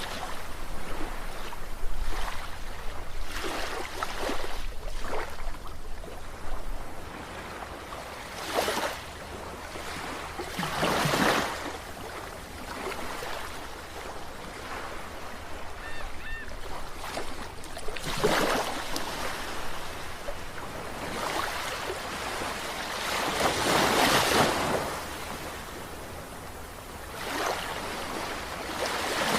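Sea waves washing ashore, a steady wash of surf that swells with each incoming wave every few seconds, the biggest surge about two-thirds of the way through.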